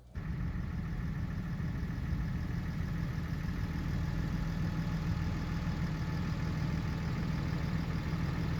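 A car engine running steadily with a low hum and an even rushing noise over it.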